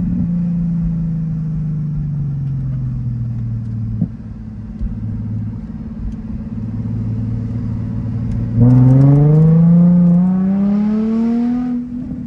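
Nissan 350Z's 3.5-litre V6 through a stock Nismo exhaust with a Tomei single-exit axle-back. The engine note falls as the car slows, holds low and steady, then about two-thirds in the throttle opens and the note climbs loudly for about three seconds before lifting off sharply. There is a single brief knock about a third of the way in.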